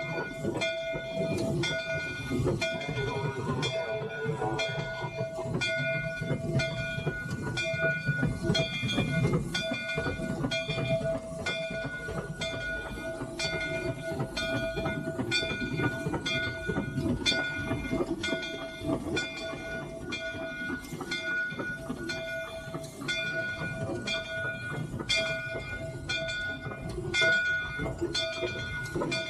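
Three-truck Shay geared steam locomotive running, heard from inside its cab: a low rumble with a regular beat a bit more than once a second and a steady high ringing tone that breaks off with each beat.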